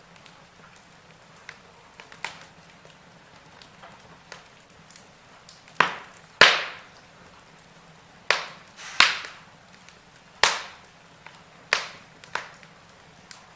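Wood fire crackling in a fireplace: irregular sharp pops and snaps over a faint steady hiss, the loudest coming in the second half.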